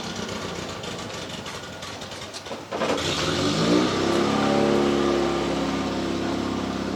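A motor vehicle engine running, rising in pitch about three seconds in, then holding a steady note.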